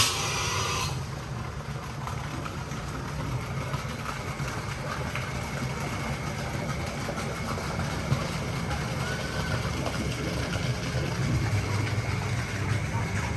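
Steady low rumble of a vehicle engine running, with a short loud hiss at the very start.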